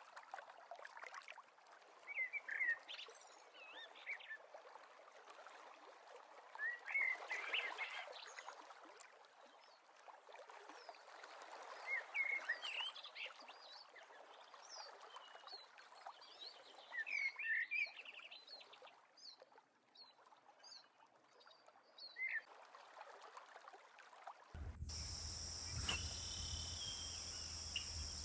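Wild birds singing in the open air, a short chirping phrase repeated about every five seconds over a soft steady hiss. Near the end the sound changes suddenly to a steady high-pitched drone with a low hum underneath.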